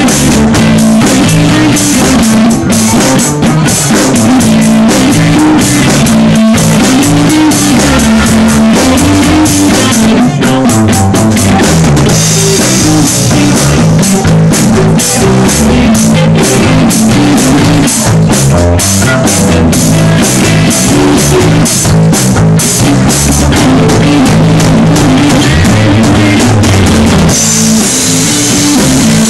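Live instrumental jazz-blues jam on electric guitar, bass guitar and drum kit, with a repeating bass line under busy drumming. It is recorded very loud and noisy.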